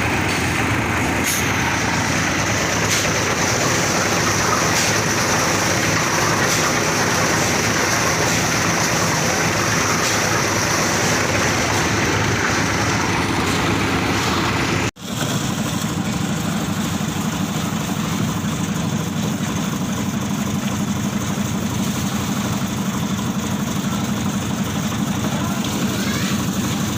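An engine running steadily under dense mechanical noise. It drops out for an instant about halfway, and afterwards a deeper steady hum is stronger.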